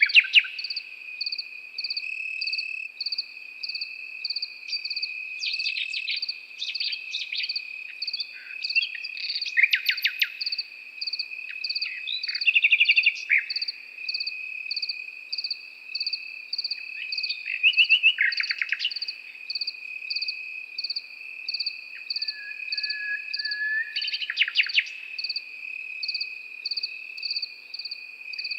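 A nightingale singing phrases of rapid repeated notes every few seconds over crickets chirping in a steady high trill, with a second pulsing insect chirp about twice a second.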